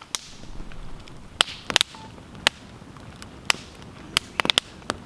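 Wood campfire crackling: irregular sharp pops and snaps over a low steady rush of burning, with a quick cluster of pops near the end.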